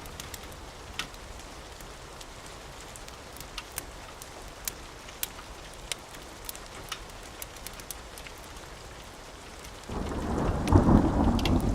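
Steady rain with scattered sharp crackles. About ten seconds in, a loud rumble of thunder rolls in.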